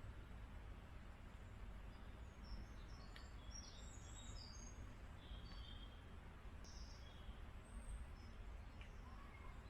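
Faint birdsong: short high chirps and calls from small birds, bunched in the middle, over a low steady background rumble.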